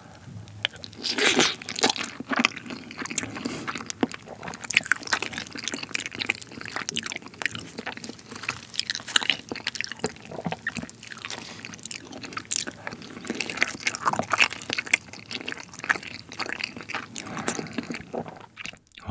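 Close-miked chewing of a mouthful of rice with soy-sauce-marinated raw crab meat (ganjang gejang): a steady run of small mouth clicks and chewing strokes.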